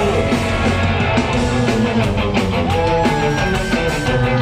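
Punk rock band playing an instrumental passage: distorted electric guitars, bass and drums, with a lead melody line stepping in pitch on top and no vocals.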